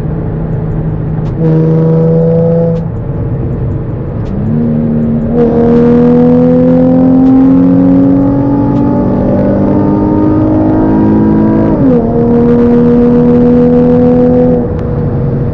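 Nissan 350Z's 3.5-litre V6, breathing through aftermarket ceramic headers, test pipes, a Y-pipe and a single-exit exhaust, heard from inside the cabin under acceleration. A short burst of throttle comes about a second and a half in. Then comes a long pull with the engine pitch rising steadily for several seconds, a quick drop as it shifts up, a further rise, and an easing off near the end.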